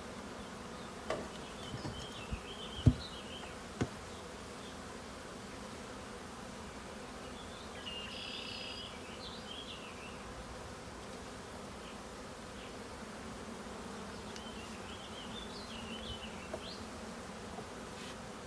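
Honeybees buzzing in a steady hum around an open hive as adult bees are shaken off frames. Several sharp knocks come in the first few seconds, the loudest about three seconds in.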